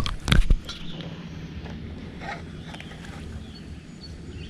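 Clicks and a low thump against the jon boat's hull in the first half second, then a steady low rumble with faint scattered ticks of handling in the boat.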